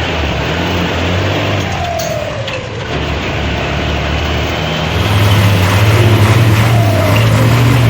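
Heavy vehicle engine, most likely the Chevrolet C65 bus's, running with a deep steady note that gets louder about five seconds in, with a few brief falling whines over it.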